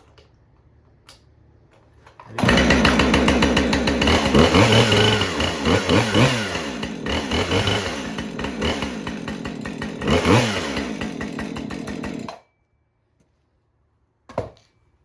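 Two-stroke chainsaw starting abruptly after a couple of seconds, running for about ten seconds while revved up and down a few times, then cut off suddenly near the end.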